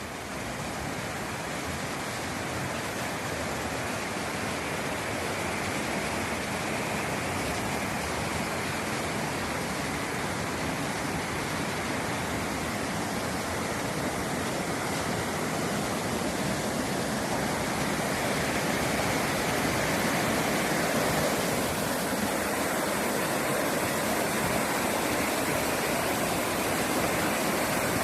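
Steady rush of water falling at Deai-daru waterfall, a dense even roar that grows slowly louder over the first part.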